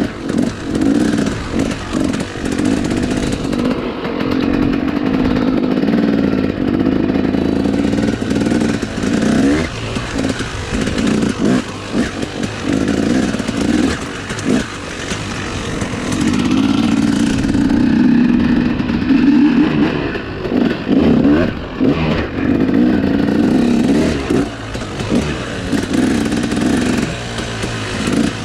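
Dirt bike engine running while being ridden, its revs rising and falling repeatedly with the throttle.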